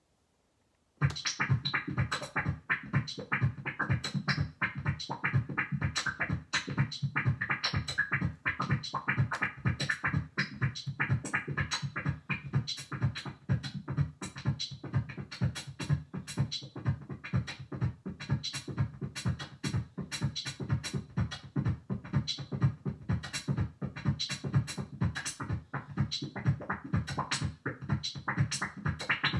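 Dave Smith Instruments Tempest analog drum machine playing a steady electronic beat of drum hits over a low bass, starting about a second in.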